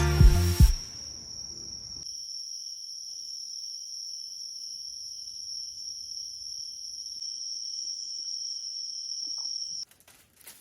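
Background music ending in the first second, then a steady, high-pitched insect chorus that cuts off suddenly near the end.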